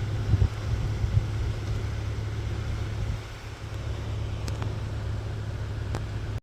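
Strong blizzard wind buffeting the microphone: a steady low rumble with a few harder gusts in the first second or so, and a few faint clicks later.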